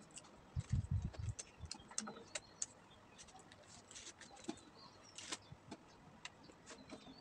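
Close-up eating sounds: chewing and mouth noises from biting into crispy fried chicken and rice eaten by hand, a string of short crisp clicks and crunches, with a few low thumps about a second in.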